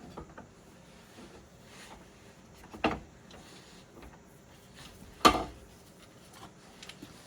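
Two short knocks about two and a half seconds apart, the second louder, from a steel lawn tractor mulching blade being handled on the workbench; no grinder is running.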